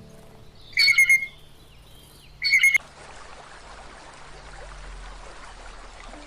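Two loud, short, harsh bird squawks about a second and a half apart, the second cutting off suddenly, followed by a steady hiss.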